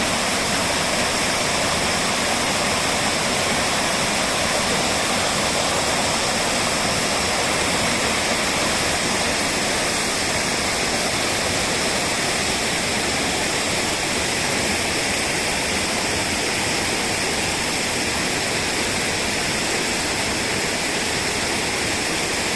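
Spring-fed waterfall: groundwater gushing out of a rock face and spilling in many small cascades over mossy boulders, a steady even rushing of falling water.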